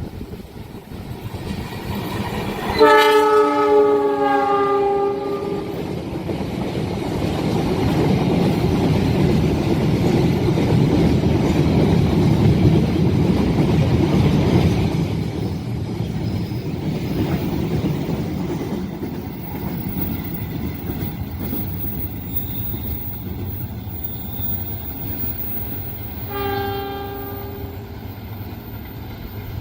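A train sounds its horn in a blast of about two and a half seconds, then rumbles past with wheels on the rails, the noise swelling and fading over some fifteen seconds. A second, shorter horn blast comes near the end.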